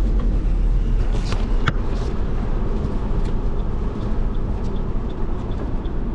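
Car driving, heard from inside: a loud, steady low rumble of tyres and road noise, with a few sharp knocks between one and two seconds in.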